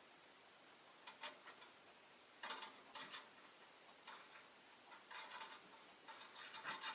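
Peach-faced lovebirds making faint clicking and scratching sounds in about five short, irregular clusters, the last and loudest near the end.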